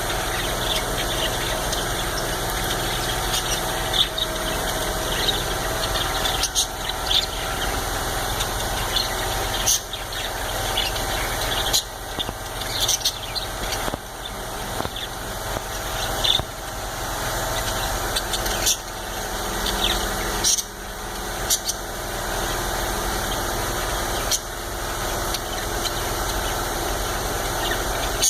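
Budgerigars chirping in short, high squeaks scattered irregularly over a steady mechanical hum.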